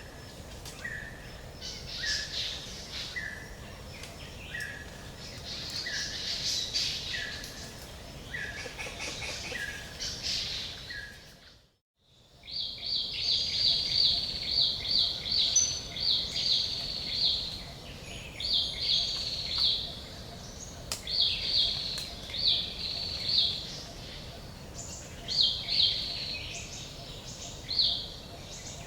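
Forest ambience of songbirds singing and calling over a steady background hiss. In the first half one bird repeats a short note about once a second. Just before halfway the sound cuts out to silence for a moment, then returns with louder, higher song phrases repeated every second or so.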